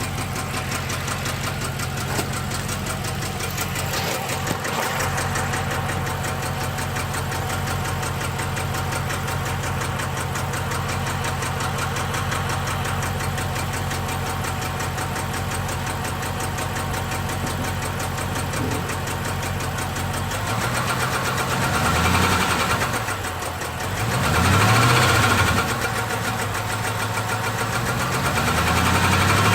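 6.1-litre SRT8 HEMI V8 idling roughly with some ticking, the sign of a random cylinder misfire. In the last third it is revved three times, the pitch rising and falling each time.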